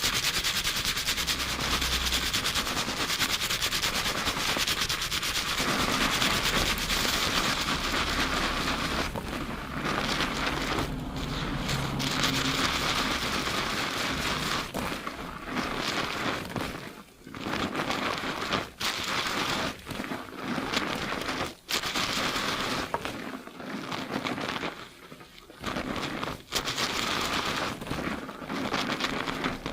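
Fingers rapidly scrubbing a shampoo-lathered scalp, giving a dense, continuous crackle of foam and wet hair. It stops briefly a few times in the second half.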